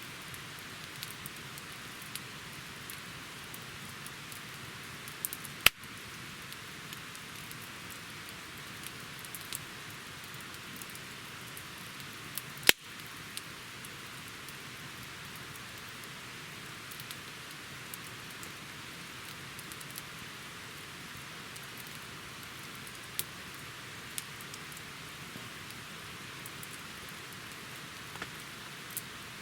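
Campfire crackling: a steady hiss with many small ticks, and two sharp, loud pops from the burning wood about seven seconds apart.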